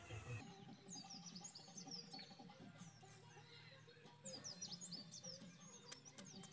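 Small birds chirping faintly in short, high calls, in two spells: one around the first two seconds and a busier one from about four seconds in.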